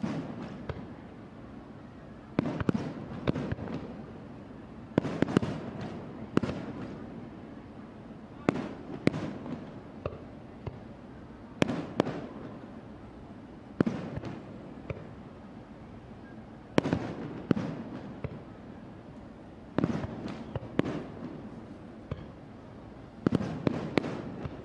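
Fireworks shells bursting overhead, one bang or a quick cluster of bangs every second or two, each with a short crackling, echoing tail.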